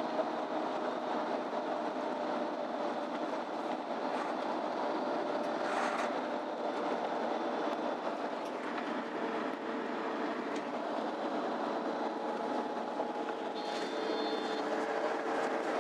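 Cabin sound of a MAN Lion's City Ü intercity bus on the move: steady engine, drivetrain and road noise, with a faint whine that sinks slightly in pitch and a second whine that rises in the second half. A brief high beep sounds near the end.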